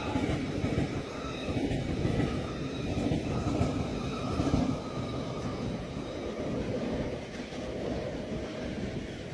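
A train running past on the line: a steady rumble of wheels on track, with faint thin high tones above it.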